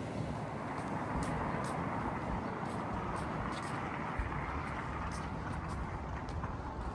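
City street traffic: a steady noise of passing cars that swells about a second in and eases again, with faint light ticks over it.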